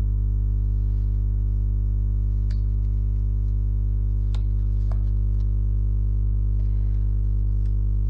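A steady low hum with evenly spaced overtones, unchanging throughout, with a few faint short clicks around two and a half and four and a half seconds in.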